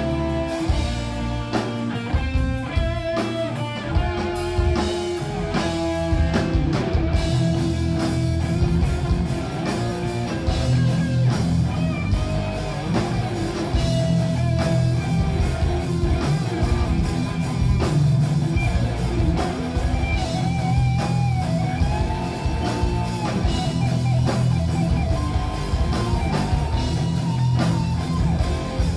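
A metal band playing live on electric guitars, bass and drum kit. A picked guitar line leads for the first several seconds, and then the full band comes in denser and heavier.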